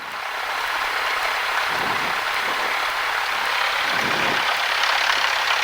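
Steady radio static hiss over the aviation headset audio, filling the gap between two air traffic control transmissions.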